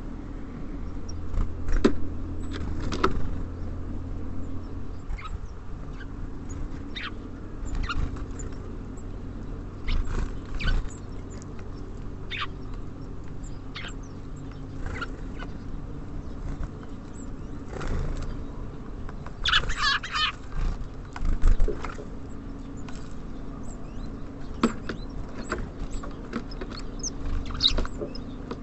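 Small birds at a feeder: scattered sharp pecking and tapping knocks with wing flutters, and a short brighter flurry just after twenty seconds, over a steady low hum of city traffic.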